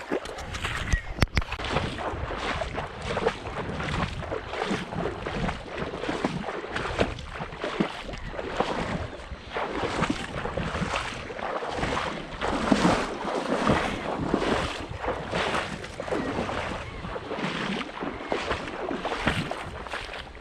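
Rough swishing water strokes, about one or two a second, like a small boat being paddled or poled through marsh water, with wind on the microphone. There is a single sharp click about a second in.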